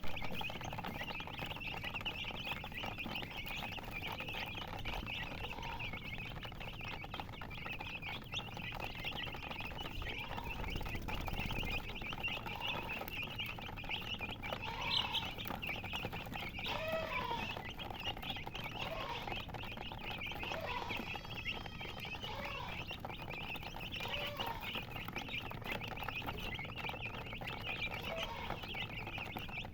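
Many baby chicks chirping at once in a continuous high-pitched peeping, with lower clucking calls, likely from a hen, coming in now and then in the middle.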